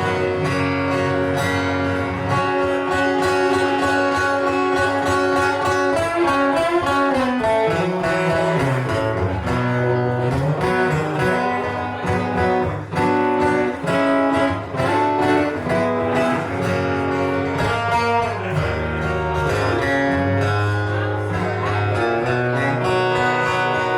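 Guitar-led instrumental break in a live song: a lead guitar plays a moving melody over strummed guitar and a stepping low bass line.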